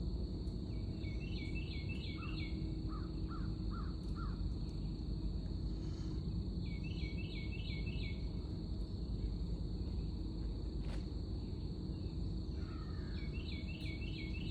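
A bird calls three times, each a quick run of about five repeated notes, over a steady high-pitched drone of insects and a constant low rumbling background noise.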